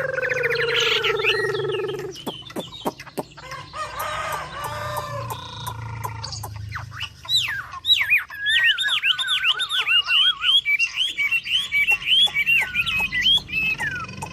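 A rooster crows at the start, one long call that falls slightly. From about halfway a songbird sings a fast, varied run of whistled notes and trills.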